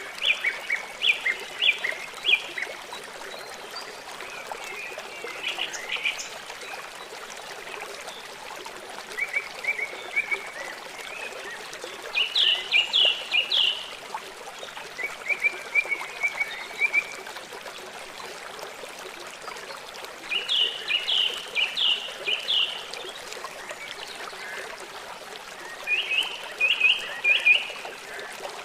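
A songbird singing short phrases of quick repeated chirps, about seven phrases a few seconds apart, over a steady trickle of running water.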